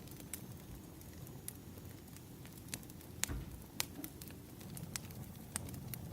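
Wood fire burning: a steady low rumble with scattered sharp crackles and pops, the loudest pop a little past three seconds in.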